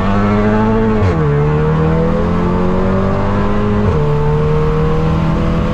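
Turbocharged car engine pulling hard under full acceleration, its pitch climbing steadily in each gear and dropping sharply at upshifts about a second in and again near four seconds in.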